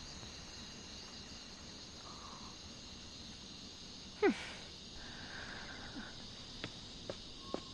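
Steady chirping of crickets under a quiet scene. About four seconds in there is one short, loud sound that falls quickly in pitch, and a few faint ticks come near the end.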